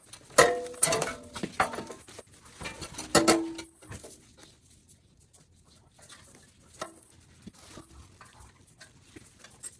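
Metal bolts and bumper brackets clinking and clattering as they are handled, with a cluster of sharp clinks in the first few seconds and only faint small knocks after that.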